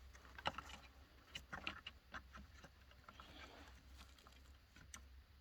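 Faint, scattered clicks and taps of small objects being handled, over a low steady hum; otherwise near silence.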